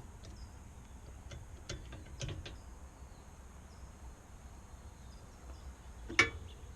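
A few light metallic clicks as a new spark plug is worked by hand into a motorcycle cylinder head, then one sharp clack about six seconds in, over a low steady hum.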